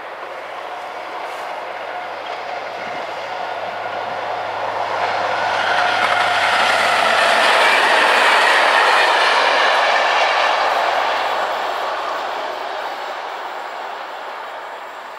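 Freight train of flat wagons with stanchions passing on the rails: the noise builds, is loudest about halfway through, and fades as the last wagons go by.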